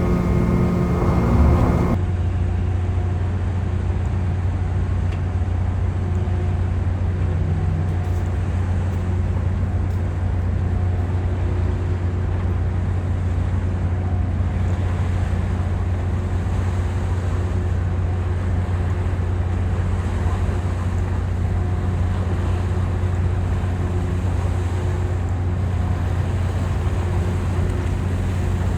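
The ferry Furutaka's engines drone steadily, heard on board while under way. A steady pitched tone sounds over them and cuts off about two seconds in.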